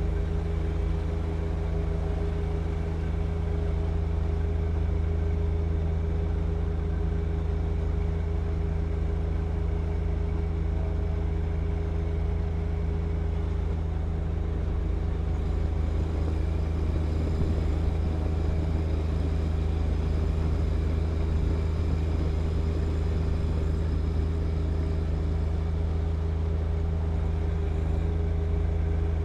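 John Deere 1025R compact tractor's three-cylinder diesel engine running steadily at a constant speed while clearing wet snow with its snow blower.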